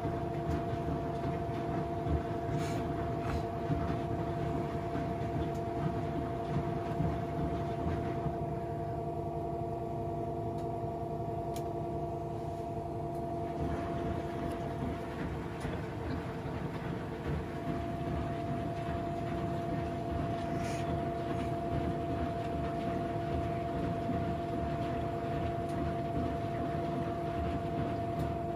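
Front-loading washing machine running, a steady motor whine over a low rumble, with a few faint clicks.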